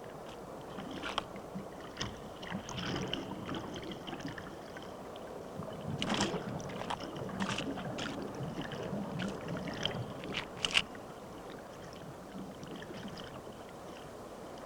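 Water sloshing and lapping, with scattered sharp splashes; the loudest come about six seconds in and again near eleven seconds.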